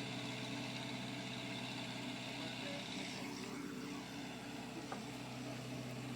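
Engine of the lifting machine idling steadily, a low, even hum.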